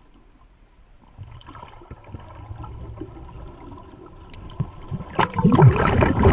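Underwater scuba breathing: quiet water noise at first, then about five seconds in, a loud rush of exhaled bubbles from the diver's regulator gurgling past the microphone.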